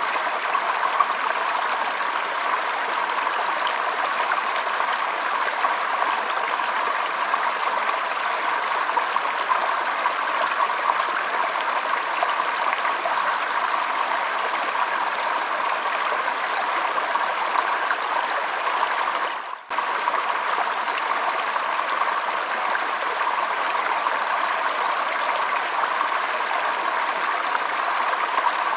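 Shallow stream trickling and flowing over a stony bed: a steady, even rush of water. About two-thirds of the way through it briefly fades out and comes straight back.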